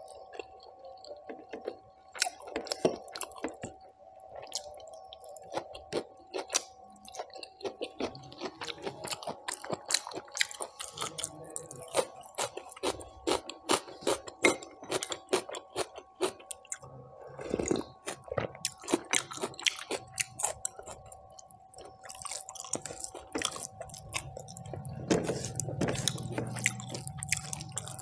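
Close-up chewing of mutton curry and rice eaten by hand: many quick wet mouth clicks, with fingers squishing rice and gravy on the plate. A faint steady hum runs underneath.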